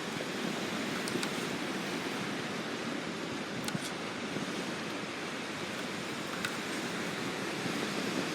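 Wood fire in a small camping stove burning, giving a steady rush with a few sharp crackles of burning wood: one about a second in, a quick pair near four seconds, and another at about six and a half seconds.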